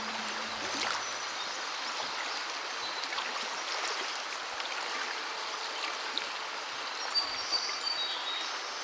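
Steady rush of creek water running over riffles. A few faint high tones come in near the end.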